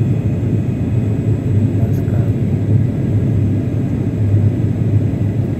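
Airliner cabin noise heard from inside the cabin: a steady low rumble of the engines and airflow.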